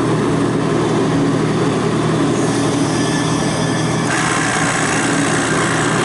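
Refrigerant recovery machine's small compressor running steadily with a hiss, pulling R-409 refrigerant out of the system; the hiss changes character about four seconds in.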